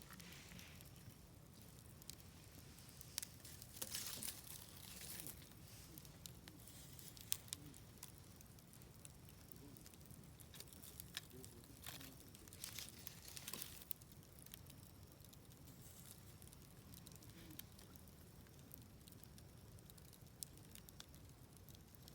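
Wood campfire burning softly, with scattered sharp crackles and pops over a low steady hiss; the pops come in small clusters about four seconds in and again around twelve to fourteen seconds.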